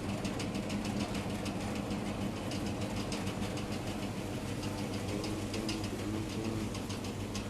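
Rain falling, heard as many irregular small ticks of drops, over a steady low motor hum.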